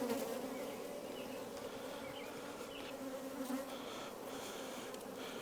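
Honeybees from an open hive humming steadily, with a low drone of even pitch.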